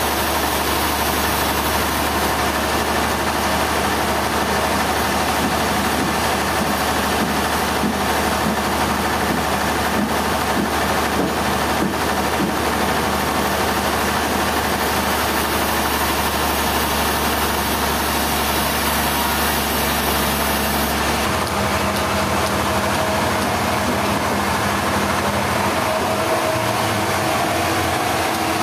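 Engine running steadily at a constant speed, with a low hum; about two-thirds of the way through, the low hum drops away and the sound changes character.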